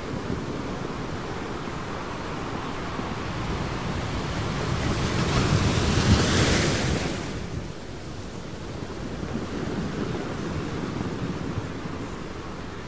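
Recorded ocean waves: a steady wash of surf that swells into one louder breaking wave about halfway through, then drops back to a softer wash.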